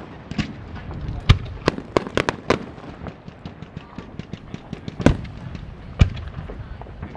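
Aerial fireworks in a finale barrage: a string of sharp booms and cracks, the loudest about a second in and again near five and six seconds in, with a flurry of lighter rapid pops in between.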